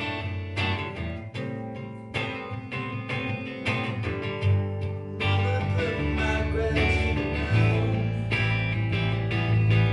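Guitars strumming a slow chord progression of G, D and A, played live through a PA, with low bass notes joining about halfway through.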